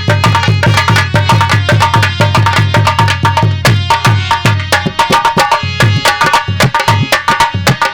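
Instrumental passage of Dhola folk music: a hand drum beats fast, even strokes under a sustained melody line.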